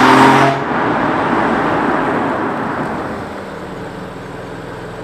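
BMW M4's 3.0-litre turbocharged inline-six revving hard, its note cutting off about half a second in as the throttle is lifted. Road and wind noise then fade steadily as the car slows.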